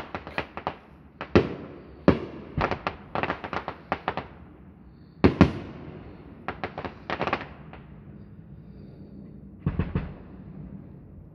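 Fireworks display: aerial shells bursting in rapid clusters of sharp bangs with crackling between them. The bursts thin out in the second half, with one last cluster near the end.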